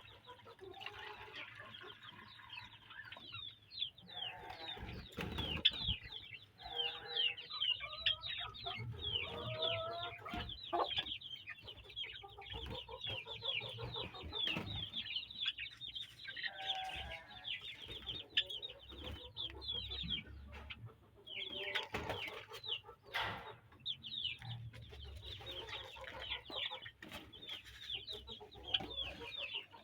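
Chickens clucking, with a constant chorus of quick, high chirps from many birds.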